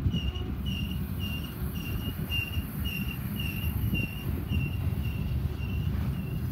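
Double-stack intermodal well cars rolling past at slow speed: a steady low rumble of steel wheels on rail. Over it a high, even chirp repeats about twice a second.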